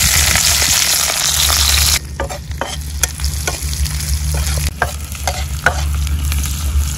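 Sliced onions hit hot oil in an iron kadai and sizzle loudly. About two seconds in the sizzle drops and a steel spatula scrapes and clicks against the pan as the onions are stirred.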